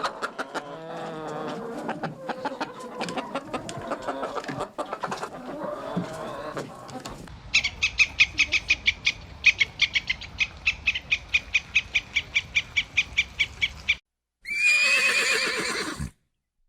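A series of separate animal calls spliced one after another: pitched calls at first, then a fast run of sharp high chirps about five a second, then a short call falling in pitch that cuts off abruptly.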